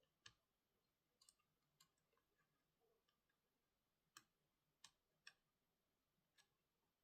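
Very faint, irregular light clicks and taps, about eight spread over several seconds, from small tools and laptop parts being handled during a repair.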